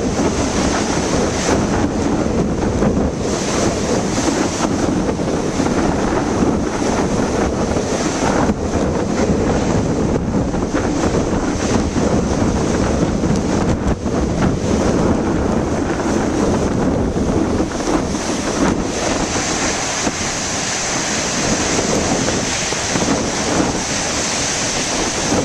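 Heavy ocean surf washing and crashing against a rocky shore, with storm wind buffeting the microphone.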